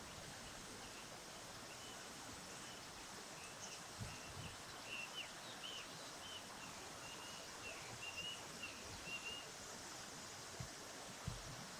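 A small bird chirping in a quick run of short, high notes over the steady rush of flowing water, with a couple of soft low bumps.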